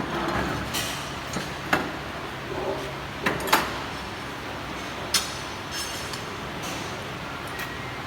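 Scattered sharp metallic clinks and knocks, about six separate strikes, over a steady workshop background noise: metal tools or workpieces being handled.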